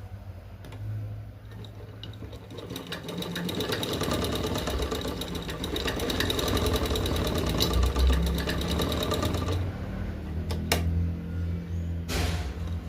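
Sewing machine running in a fast, even rhythm for about seven seconds, stitching a test run after threading to check that the thread feeds smoothly. It stops, followed by a couple of sharp clicks and a short rustle near the end.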